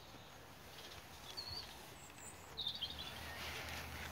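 A few short, high bird chirps over quiet outdoor background noise, one about a second and a half in and a brief cluster near the middle.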